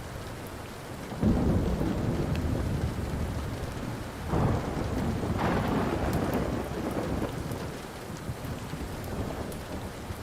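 Rolling thunder over steady rain. A deep rumble breaks out about a second in, and a second, brighter peal follows about four seconds in before it dies away. Faint wood-fire crackles tick through it.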